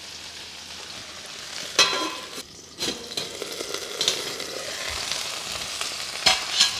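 Okra and potatoes sizzling steadily in oil in a kadhai. Sharp metal clinks of a steel lid against the pan come about two seconds in, with a few lighter clanks later.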